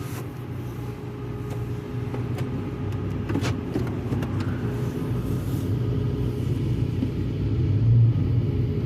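Automatic car wash machinery running with a steady low rumble and hum, growing louder near the end, with a few short clicks or spatters about three seconds in.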